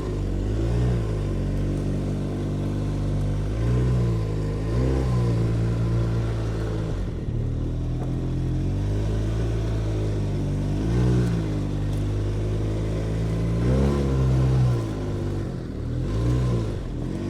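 Snowmobile engine running steadily, throttled up about five times, its pitch briefly rising and falling back each time.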